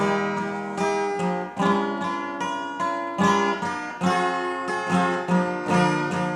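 Acoustic guitar strumming chords in a steady rhythm, each chord ringing on; it is the instrumental introduction to a love song.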